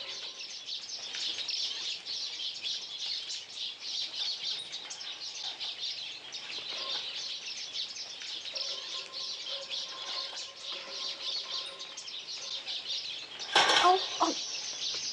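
Many small caged birds, canaries and lovebirds among them, chirping and twittering together in a steady dense chatter. A louder sudden noise comes about a second and a half before the end.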